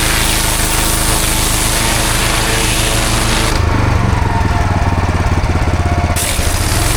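Pressure washer's engine running with the hiss of the high-pressure spray on block paving. About halfway through, the spray cuts off for roughly two and a half seconds while the engine keeps running with a pulsing low note, then the spray starts again.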